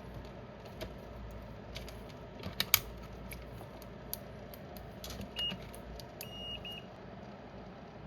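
Small clicks and taps of parts and tools being handled on a workbench, the loudest a sharp double tap nearly three seconds in. They are followed by a few short high electronic beeps about five and a half to seven seconds in.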